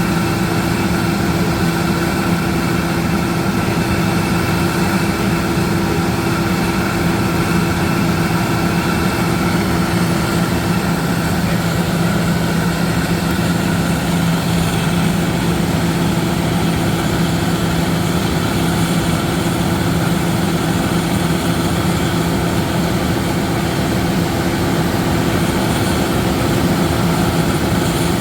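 Combine harvester's diesel engine running steadily at constant speed while it unloads grain, a continuous low hum with a steady tone over it.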